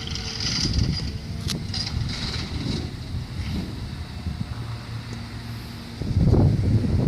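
Garbage truck engine running with a low rumble, with a sharp metallic click about one and a half seconds in and a louder surge of low rumble about six seconds in.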